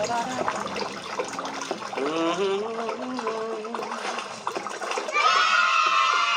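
Voices with rising and falling pitch, then a loud, sustained high-pitched sound that starts suddenly about five seconds in.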